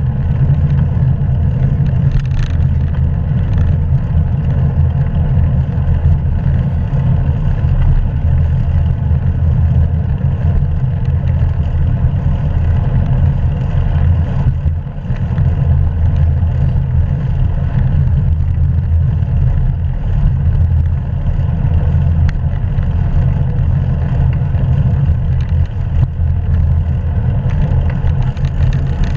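Steady low rumble of wind buffeting a helmet- or bike-mounted action camera's microphone while riding a bicycle, with road noise beneath it.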